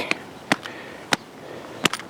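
Bare feet walking through wet, soft clay mud, each step giving a sharp slap: three steps.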